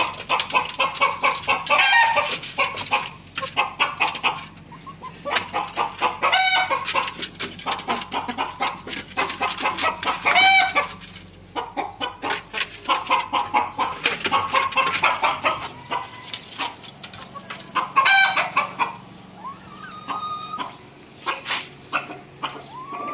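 Domestic chickens clucking busily, with a rooster crowing three times, the crows standing out above the flock; the clucking thins out near the end.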